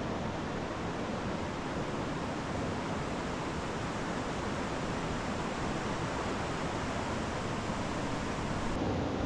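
River water rushing steadily over rocks, a continuous even hiss with no distinct events.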